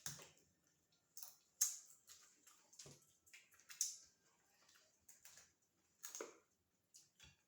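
A person chewing seafood: irregular wet smacks and clicks, about eight separate bursts with quiet gaps between them.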